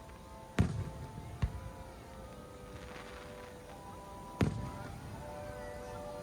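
Fireworks shells bursting: three sharp bangs with a low rumbling tail, the first loudest, a second soon after and a third about three seconds later, over music with long held notes.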